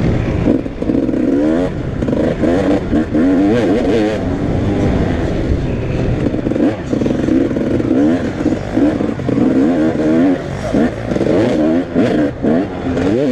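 Several motocross bikes racing, their engines revving up and dropping back over and over as they accelerate and change gear, with the revs of different bikes overlapping.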